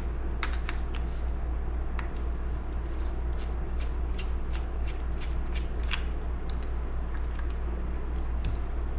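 Scattered light clicks and taps of small parts being handled and fitted as a chainsaw's carburetor, gaskets and throttle linkage are worked back into place, over a steady low hum.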